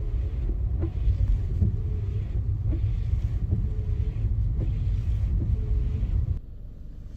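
Steady low rumble of a car driving, cutting off abruptly near the end.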